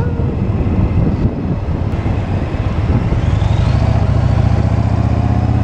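Motorcycle engine running under way, with wind rushing over the microphone. About halfway through, the engine note rises and then holds steady and stronger.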